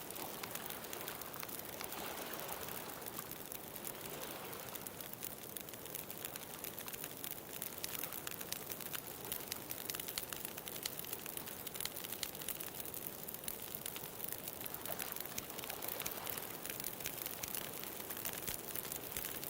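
Beach bonfire crackling steadily with many small, quick pops, over a soft wash of ocean waves that swells near the start and again near the end.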